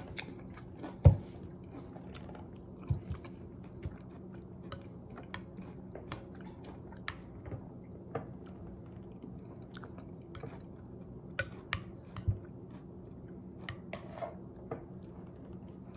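Close-up chewing and mouth sounds of a person eating oatmeal, with scattered small clicks of a spoon against a bowl and a sharp knock about a second in, over a faint steady hum.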